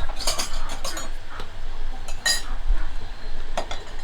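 Light clinks and clatter of hard objects knocking together, with one ringing clink about two seconds in.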